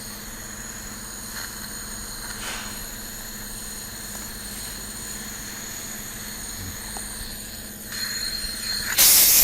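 Steady machine hum with several high, even whining tones, then a loud, short hiss about nine seconds in.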